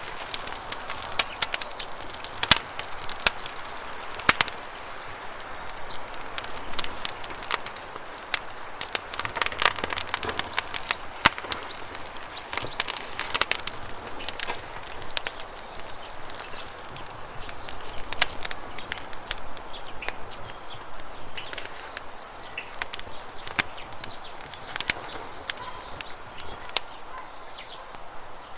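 Wood campfire crackling with frequent sharp pops, over the steady rush of running river water, with a few short bird chirps.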